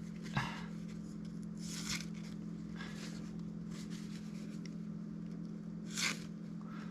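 A freshly sharpened Cold Steel Mayhem knife is drawn through a paper towel to test its edge: a few short scraping, tearing swipes, the last and loudest near the end. A steady low hum runs underneath.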